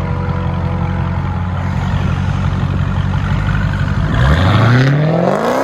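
Dodge Challenger Hellcat's supercharged 6.2 L Hemi V8 through a straight-pipe exhaust with the mufflers and valves deleted. It idles with a steady deep rumble, then about four seconds in the revs climb sharply.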